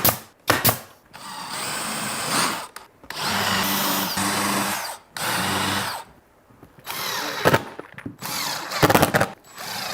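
Power drill driving screws into wood in three runs of one to two seconds each, with sharp clicks and knocks at the start and again near the end.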